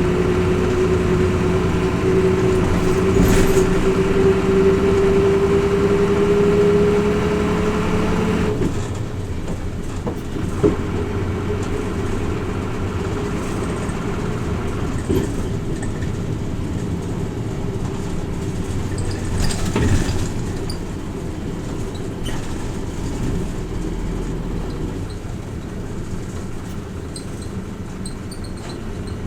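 Hino Rainbow RJ (P-RJ172BA) city bus heard from inside the cabin, its diesel engine pulling with a slowly rising note for about eight seconds, then cutting back suddenly as the bus runs on more quietly with road and body noise and a few light clicks.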